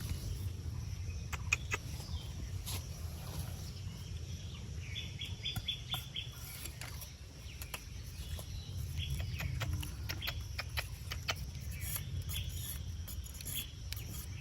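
Birds chirping in short runs of quick notes, with scattered sharp clicks, over a steady low rumble.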